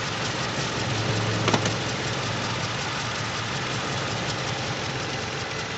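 Toyota Innova's gasoline VVT-i four-cylinder engine idling with a misfire: one cylinder is not firing properly. There is a single click about a second and a half in.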